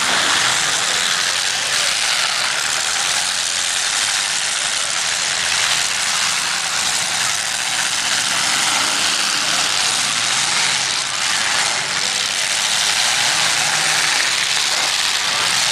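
Several demolition derby cars' engines running together in the arena, a steady loud engine racket.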